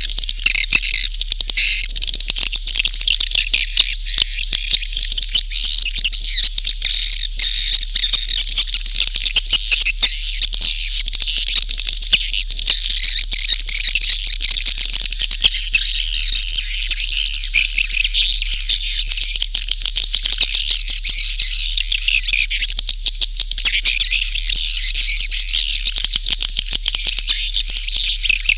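Edible-nest swiftlet calls from a swiftlet lure recording: a dense, continuous twittering chatter of many birds with quick clicks, over a steady low hum.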